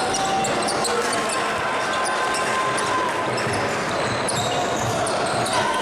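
Live gym sound of a basketball game: a ball bouncing on the court, many short high squeaks and a general din of voices echoing in the hall.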